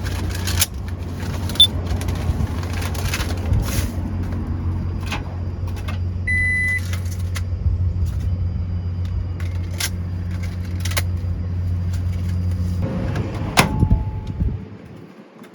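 Small electric cooking appliance humming steadily, with scattered light clicks of handling and a short high beep about six seconds in; the hum stops near the end.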